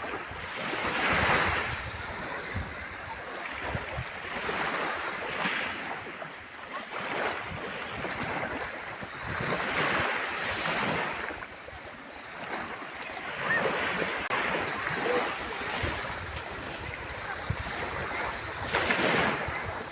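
Sea waves breaking and washing on the shore, swelling and fading every few seconds, with the biggest surges about a second in, midway and near the end.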